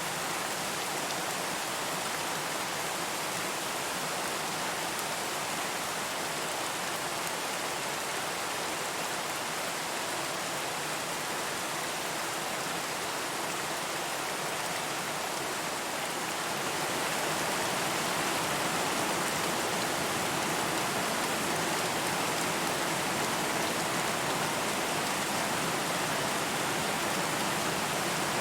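Steady rain, an even hiss with no single drops or other sounds standing out; it grows slightly louder a little over halfway through.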